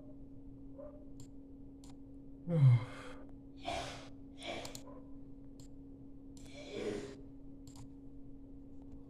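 A person sighs once, with a low falling voice, about two and a half seconds in; this is the loudest sound. Three softer breaths follow, over a faint steady hum.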